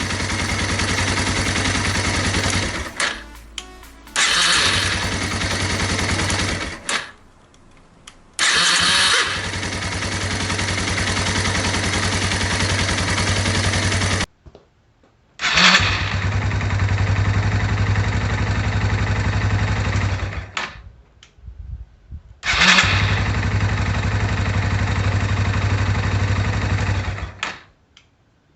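Yamaha 225 cc single-cylinder motorcycle engine started and running at idle, in several short takes that each begin suddenly and stop or cut off a few seconds later.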